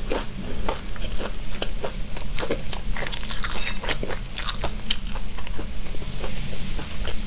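Close-miked chewing of crispy fried skewered food, with many irregular crunches and mouth clicks.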